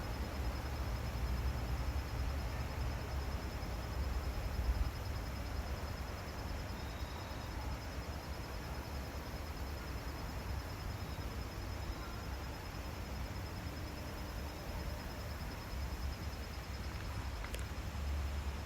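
Forest ambience: a steady low rumble, a continuous high-pitched pulsing insect trill, and a faint bird chirp now and then.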